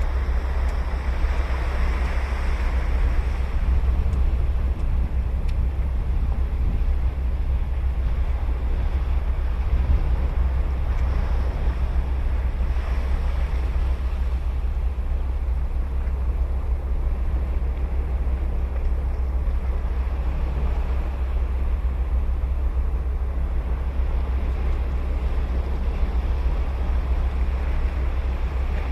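Ocean surf washing on a sandy beach, a steady hiss that swells a little as waves break, over a constant low rumble.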